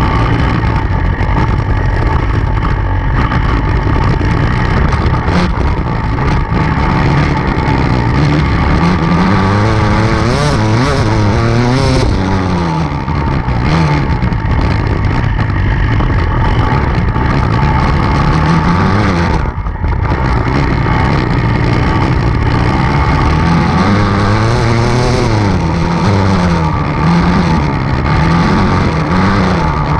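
Enduro dirt bike engine running hard, its pitch rising and falling repeatedly as the throttle is worked, with a brief drop in revs about two-thirds of the way through.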